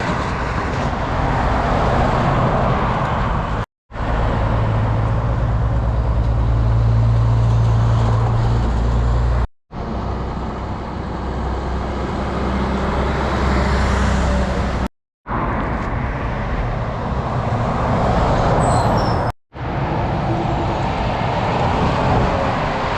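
Road traffic with a heavy truck's engine running, in several short stretches broken by brief silent cuts. The engine's low, steady hum is strongest from about four to nine seconds in.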